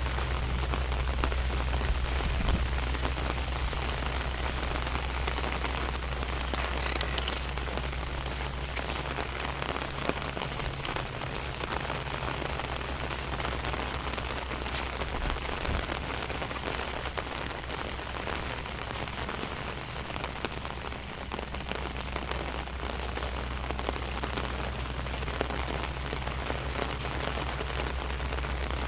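Steady rain falling, with many individual drops heard as small scattered ticks, over a constant low rumble.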